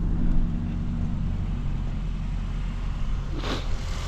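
Kia Forte GT's turbocharged 1.6-litre direct-injection four-cylinder engine running steadily at a raised idle, with a brief hiss about three and a half seconds in.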